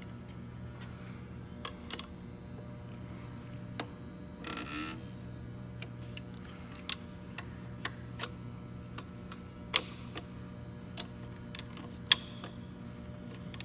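Scattered light metallic clicks and taps of hand tools on a gearbox while its bolts are loosened, with two sharper clicks in the second half and a brief scrape about four and a half seconds in, over a steady low hum.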